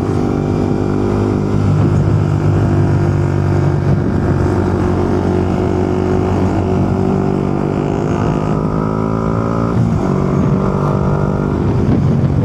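Motorcycle engine running steadily while riding on the road, heard from a helmet-mounted camera. The engine note changes twice, about eight and ten seconds in.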